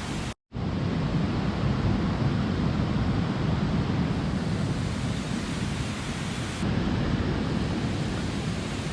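Steady, unbroken rush of a mountain stream's water, cut by a brief dropout to silence about half a second in.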